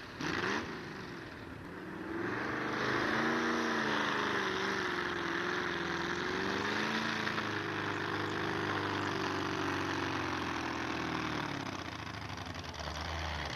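Pulling truck's engine at high revs through a pull, its pitch wavering as it works against the load, easing off near the end.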